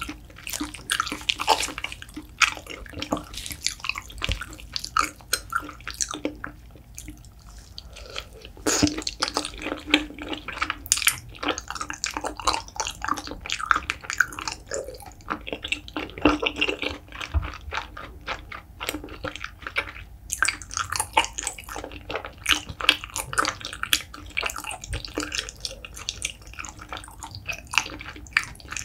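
Close-miked chewing of sticky, chewy braised beef feet (gelatinous skin and tendon): a continuous run of wet clicks and mouth sounds.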